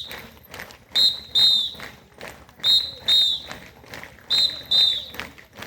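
A whistle blown in pairs of short, high blasts, three pairs spaced evenly, giving the beat for a mass drill. Faint taps sound between the blasts.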